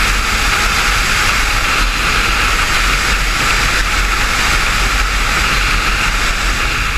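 Steady rushing noise of a motorcycle ride at speed: wind and engine noise, loud and unchanging, with no distinct revs or gear changes.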